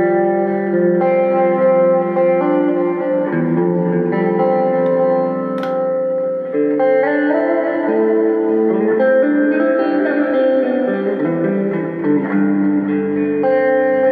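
Electric guitar played through a Zoom G3Xn multi-effects pedal on an ambient patch with a church reverb: slow chords whose notes ring on and overlap, changing every second or two.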